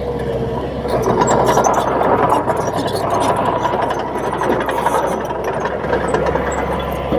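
Komatsu D31P crawler bulldozer's diesel engine running steadily, with metallic clatter and a thin steady squeal from the machine.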